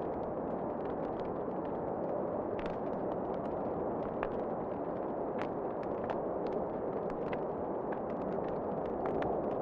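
Fireplace fire crackling, with many small irregular pops and snaps over a steady rushing noise.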